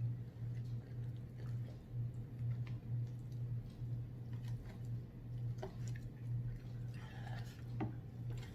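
Chewing and small mouth and eating sounds, scattered soft clicks, over a steady low hum.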